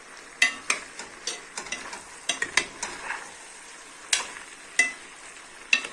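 Beef and carrots frying in a pot with a splash of red wine, sizzling steadily. A utensil clicks and scrapes against the pot in irregular knocks as it is stirred.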